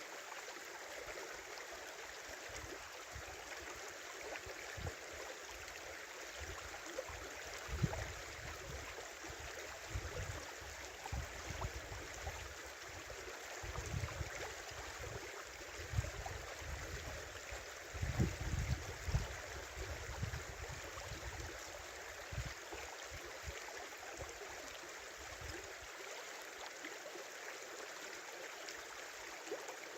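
Small river running steadily over an open stretch in winter ice, a continuous rush and gurgle of water. Irregular low rumbles come and go through the middle, strongest a little past halfway.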